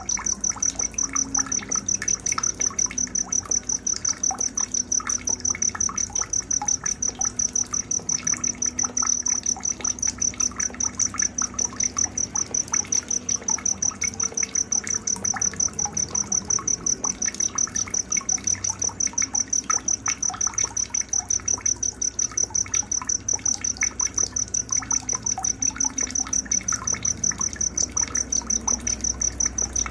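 A cricket chirping, a high-pitched steady rhythm of about four pulses a second, over scattered faint bird chirps.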